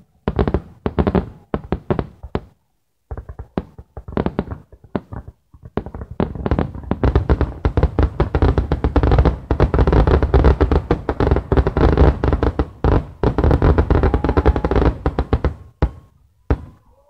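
Aerial fireworks exploding in the closing barrage of a display: scattered bangs at first, then from about six seconds in a dense, nearly continuous volley of bangs, which stops shortly before the end.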